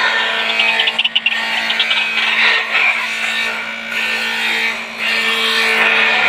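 White-breasted waterhen calling: a loud, harsh, croaking bout that runs on without a break, with a quick stuttering run about a second in.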